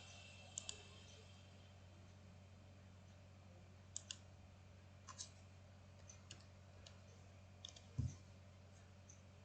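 Computer mouse button clicks, mostly in quick pairs a few seconds apart, over a steady low hum. A single low thump comes about eight seconds in.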